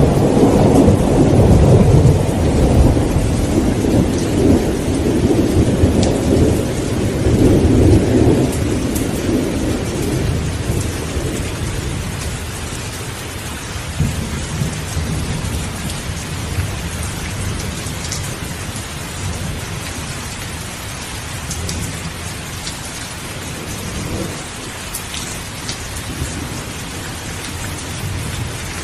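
Steady rain with a long roll of thunder. The rumble is strongest in the first eight seconds, then dies away, leaving the rain.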